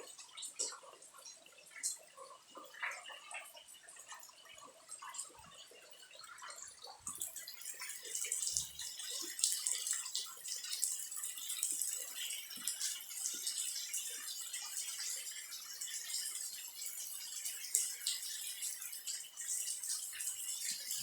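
Rain: scattered drops dripping and tapping at first, then a denser, steady hiss of falling rain from about seven seconds in.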